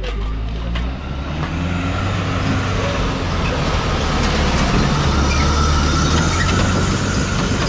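A motor vehicle's engine running steadily, a low even hum with a faint high whine above it.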